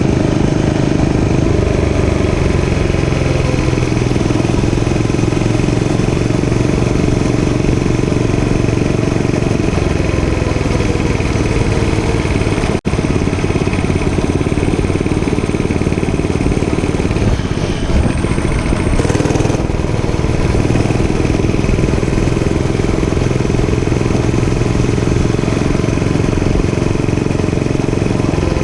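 Dirt bike engine running under way, its pitch wavering gently with the throttle; the sound drops out for an instant about thirteen seconds in.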